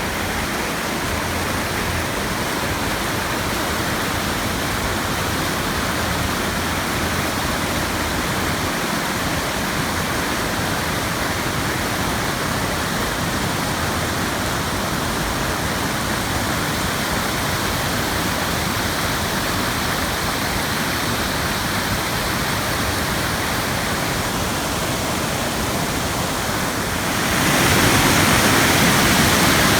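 Waterfall pouring, a steady rush of falling water that grows louder and fuller near the end.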